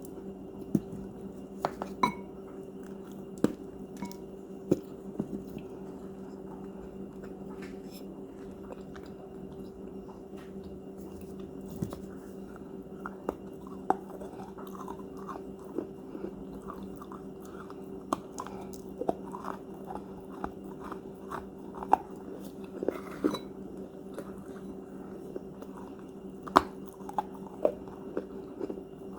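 Crunchy cookies being bitten and chewed close to the microphone: irregular sharp crunches, with a few louder bites, over a steady low hum.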